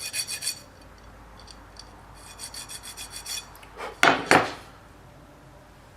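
A steel Woodruff key being cleaned up by hand with quick back-and-forth rubbing strokes, about seven a second, in two short spells. Two sharp clacks come about four seconds in.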